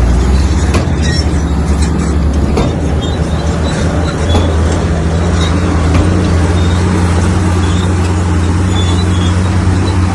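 Heavy diesel earthmoving machine running steadily under load, with a deep, even engine hum and a few sharp metallic knocks about 1, 2.5 and 6 seconds in.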